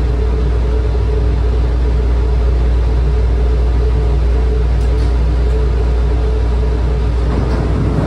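Airport people-mover train running, heard from inside the car: a steady low rumble with a faint steady hum above it.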